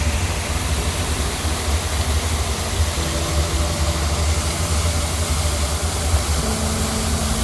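Wind buffeting the microphone: a fluctuating low rumble over a steady rushing hiss.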